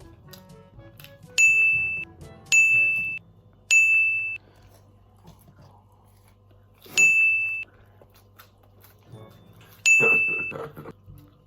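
Bright bell-like ding sound effect, five times at uneven gaps, each ringing briefly and fading. Likely an edited-in counter cue marking each nugget eaten.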